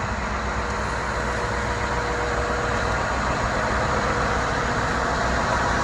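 Scania R500 truck's V8 diesel engine idling steadily.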